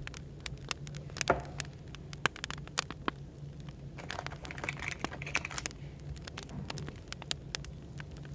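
Firewood fire crackling, with irregular sharp pops and snaps, over a steady low hum of background white noise.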